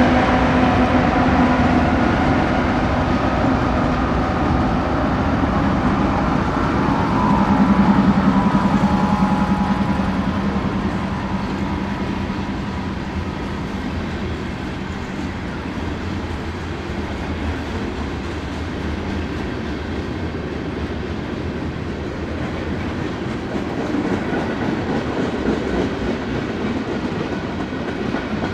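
Union Pacific freight train passing: the locomotive's diesel engine sound swells to its loudest about eight seconds in, then the freight cars keep rolling by on the rails in a steady rumble that slowly eases.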